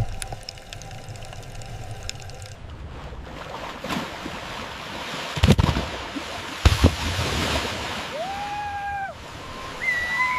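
Water rushing with a surf-like swell, two heavy low thumps about halfway through, and short held tones near the end.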